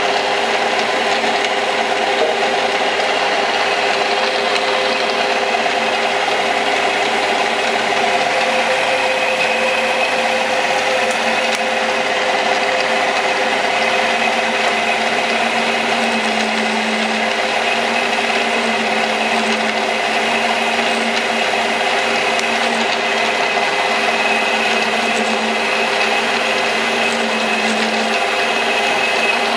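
Metal lathe running steadily, its motor and gearing giving an even mechanical whine with several held tones.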